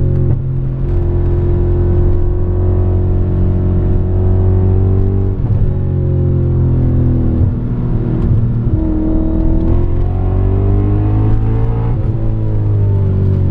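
BMW E39 M5's 4.9-litre S62 V8 running under load, heard from inside the cabin. The engine note rises and falls in pitch with the throttle.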